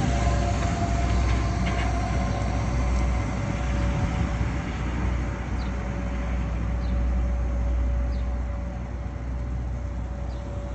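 A motor vehicle's engine running with a steady low rumble, with a faint steady tone held above it.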